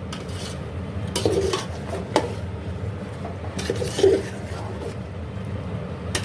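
A ladle stirring cauliflower and chicken in a cooking pot: scraping against the pot with a few sharp clinks as it knocks the rim.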